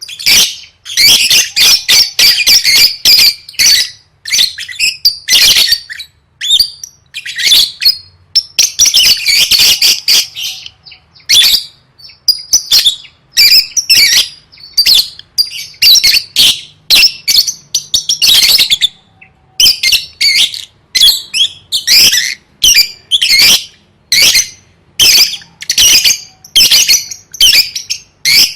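Lovebird singing non-stop: fast, shrill chattering and squawks in runs of a second or two, broken by short pauses.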